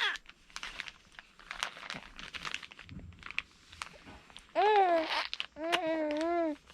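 Scattered small clicks, smacks and crinkles of a baby being spoon-fed cereal. About two-thirds of the way through, a high voice makes two drawn-out, wavering wordless sounds.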